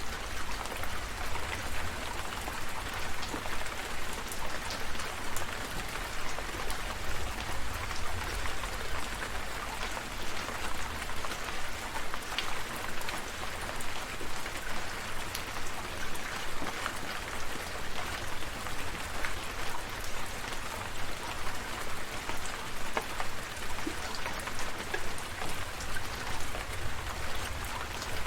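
Steady rain falling, with many separate drops pattering close by over the constant hiss, and a low steady rumble underneath.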